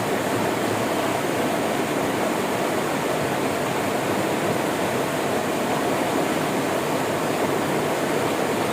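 River water flowing in a steady, even rush, strongest in the low-middle range, with no breaks or changes.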